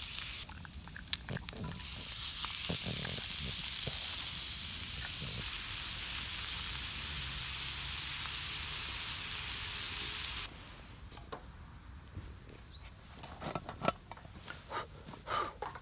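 Food sizzling as it fries in a hot pan, a steady hiss that stops abruptly about ten seconds in. Afterwards come a few light clicks and knocks.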